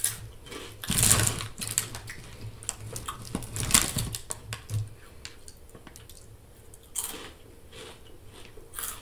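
Flamin' Hot Cheetos crunched and chewed close to the microphone, a run of small crisp crunches. There are louder rustles of the chip bag, one about four seconds in as a hand reaches into it.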